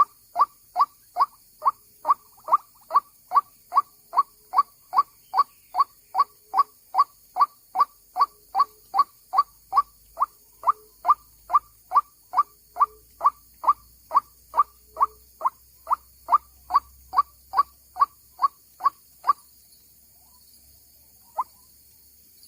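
White-breasted waterhen (ruak-ruak) calling: the same short note repeated evenly, about two and a half times a second. It stops about 19 seconds in, and a single call follows near the end.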